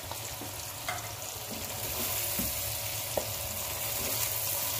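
Crispy chicken, capsicum and onion sizzling steadily in a non-stick pan as soy sauce and hot sauce go in and the stir-fry is turned with a spatula. A couple of short light clicks of the spatula against the pan, about a second in and again near three seconds.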